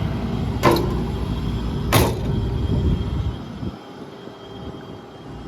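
Diesel engine of a Hitachi Zaxis 200 LC hydraulic excavator running with a low, steady rumble that grows fainter past the middle. Two sharp knocks come about a second apart near the start.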